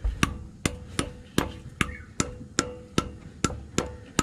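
Light, evenly paced hammer taps, about two and a half a second, on a socket driving a spigot (pilot) bearing into the back of the crankshaft, each tap with a short metallic ring.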